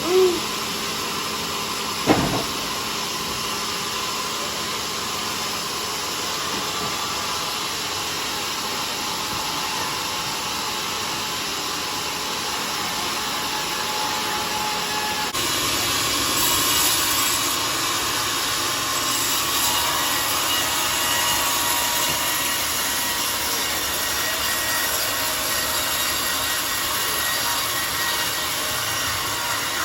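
A homemade sawmill runs and saws a mahogany log with a steady whirring noise. There is a single sharp knock about two seconds in. About halfway through the noise grows louder and brighter.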